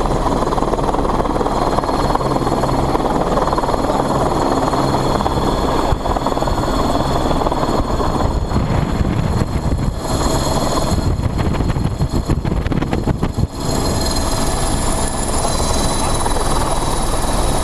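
Police helicopter running steadily: dense rotor and engine noise with a thin, steady high-pitched whine. About ten seconds in, the sound flutters rapidly for a few seconds before settling again.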